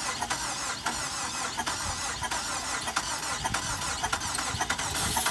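A 2005 Chrysler PT Cruiser turbo's blown engine being cranked over without starting, with a high wavering squeal.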